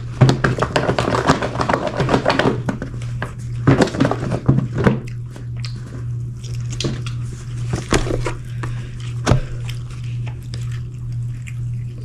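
Chicken wings being shaken in their takeout box to coat them in sauce: a dense rattling and rustling for the first five seconds or so, then scattered clicks and knocks of the food being handled. A steady low hum runs underneath.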